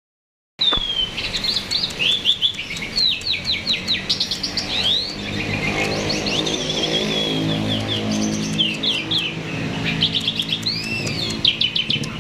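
A jalak (starling) singing a fast, varied run of chirps, trills and slurred whistles, in full 'gacor' song. The audio drops out for about half a second at the very start, and a lower steady tone sounds underneath through the middle.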